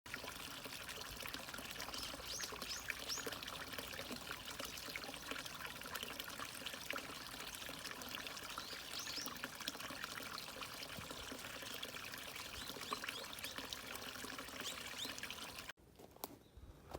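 Water trickling and splashing steadily, as in a small stream, with a few short high chirps over it. It stops abruptly about a second before the end.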